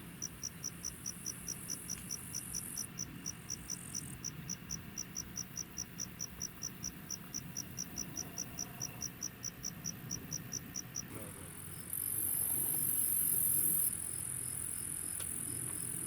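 Crickets chirping in a steady rhythm of about five chirps a second, with a continuous high-pitched insect buzz over them. The buzz gets louder about twelve seconds in, as the chirping fades.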